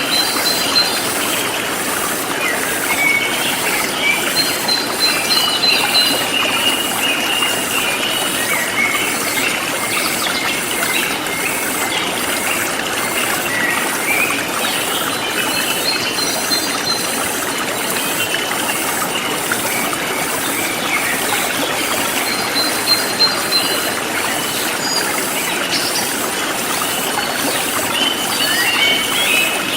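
Forest stream flowing steadily, with birds chirping now and then and an insect chirping high up in an even, repeating pulse.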